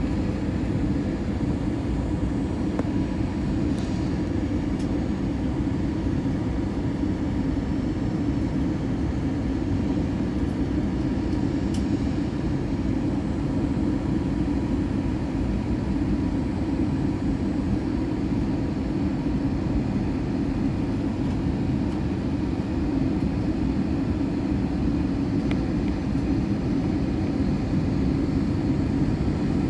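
Steady cabin noise inside an Airbus A321 in flight: an even, low rush of engines and airflow with a faint steady hum, with no change or thump.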